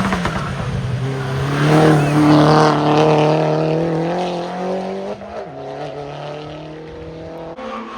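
Hillclimb race car accelerating hard past, its engine note swelling to its loudest about two to three seconds in. About five seconds in the pitch drops with a gear change, then it pulls on more quietly.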